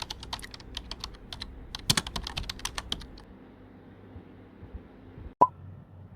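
Typing on a keyboard: a quick, irregular run of key clicks for about three seconds, then quieter low room tone, broken by a single sharp click near the end.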